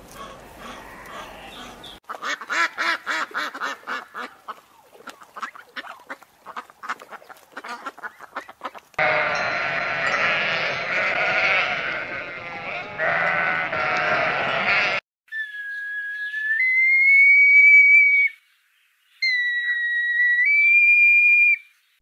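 A run of edited animal sounds: several seconds of fast clicks, then a flock of sheep bleating over one another, then a few long whistled notes, each held steady, the later ones higher in pitch.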